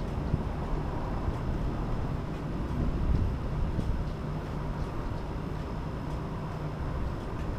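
Steady low rumble of a moving vehicle, with a noisy haze over it.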